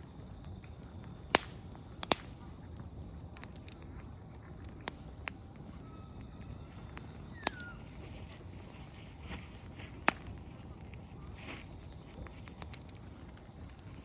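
Open wood campfire crackling: firewood snaps and pops in about six sharp cracks spread irregularly through, the loudest two a second or so in, over a low steady fire hiss. A steady high pulsing chirp runs in the background.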